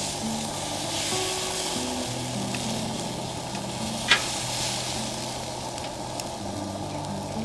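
Food sizzling in a hot pan, a steady frying hiss with one sharp pop or tap about four seconds in, over soft background music.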